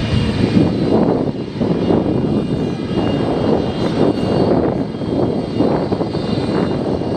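Jet aircraft engines running steadily: a high, even turbine whine over a heavy low rumble, from the Antonov An-225 Mriya's turbofans.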